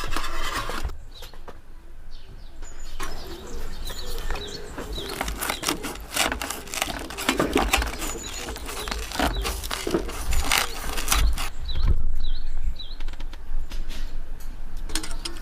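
Irregular clicks, knocks and clatter of things being handled, over a low rumble, with small birds chirping briefly a few times, about a second in and again near the end.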